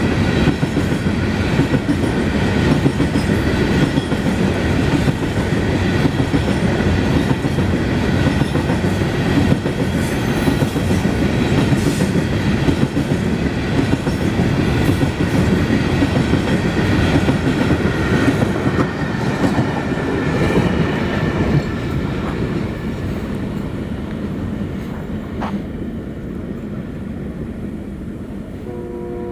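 A freight train of coal wagons rolling past at speed, wheels clattering over the rail joints in a steady rumble that fades away over the last several seconds as the train passes.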